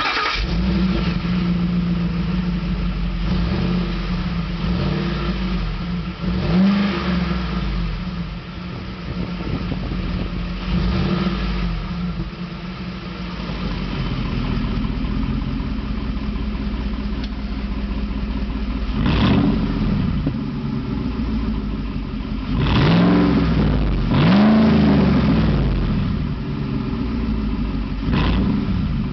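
Ford SVT Raptor V8 running through a 3.5-inch Quick Time Performance electric exhaust cutout, idling with several quick throttle blips that rise and fall, the strongest about two-thirds of the way through.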